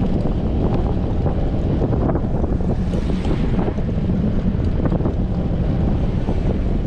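Wind buffeting a GoPro's microphone on a moving bicycle in strong wind: a steady, loud, low rumble.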